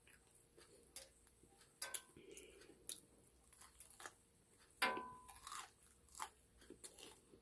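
Biting into and chewing crispy fried chicken close to the microphone: faint, irregular crunches of the breading and wet mouth clicks, with one louder crunch about five seconds in.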